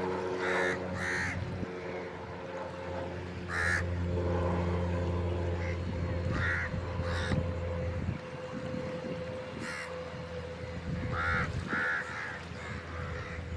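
Harsh bird calls, short and repeated about eight times at irregular intervals, over a steady low motor hum.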